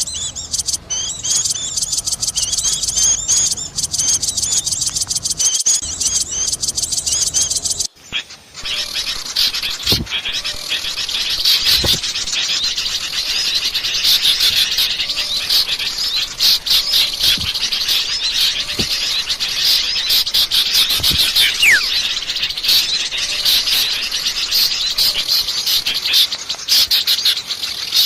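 Bird-lure recording of many small songbirds calling at once in a dense, noisy chatter of high chirps and twitters. The mix breaks off briefly about eight seconds in, then carries on with a busier flock of calls.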